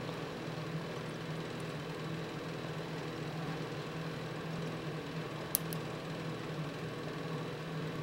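Steady low mechanical hum like a household fan or air conditioner running, with a brief sharp click about five and a half seconds in.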